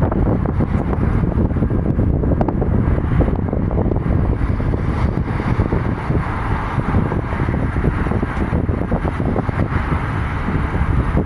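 Airbus A350-941's Rolls-Royce Trent XWB jet engines rumbling steadily as the airliner departs, with wind buffeting the microphone.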